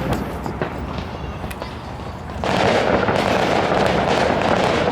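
Fireworks display: a bang at the start and scattered pops, then about halfway a sudden, louder, continuous wash of crackling.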